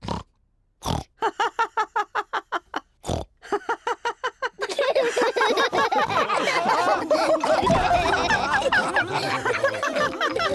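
Cartoon pig characters laughing with snorts: a rapid run of short snorting laughs, then from about four and a half seconds in several voices laughing and snorting together.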